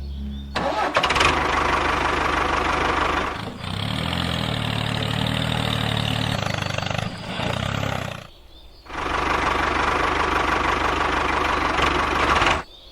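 An engine or motor running with a dense, rattly noise, in three stretches that start and cut off abruptly. The middle stretch carries a low pulsing hum, and there is a brief drop about eight seconds in.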